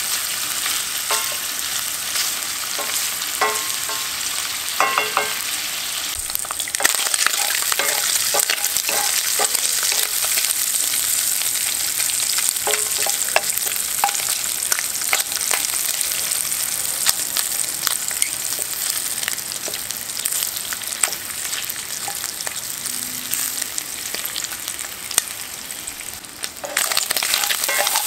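Sliced hot dogs sizzling in hot oil in a cast-iron pot, with scattered clicks and scrapes of a wooden spatula against the iron as they are stirred.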